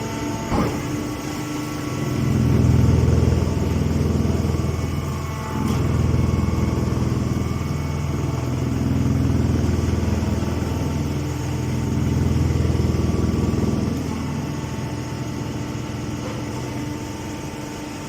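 An engine running steadily, its sound swelling louder and easing back several times, a few seconds at a time. A short knock comes about half a second in.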